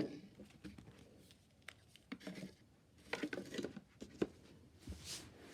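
Faint handling noises of small gift items and bags: scattered light taps and clicks, with a brief rustle near the end.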